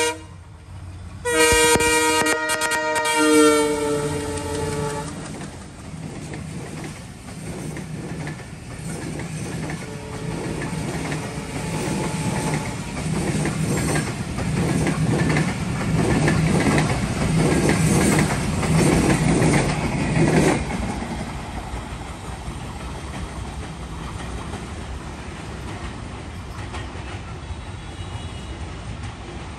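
Passenger train's horn blows for about four seconds starting a second in, its pitch sliding down as it ends. The coaches' wheels then clatter over the rail joints in a quickening rhythm that grows louder and stops abruptly about twenty seconds in as the train clears, leaving a steady lower rumble.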